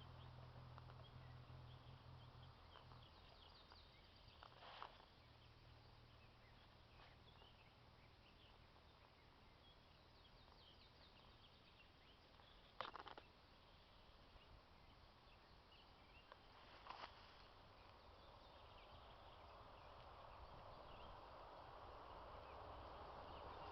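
Near silence: faint outdoor ambience with scattered faint high chirps and three brief soft knocks spaced several seconds apart.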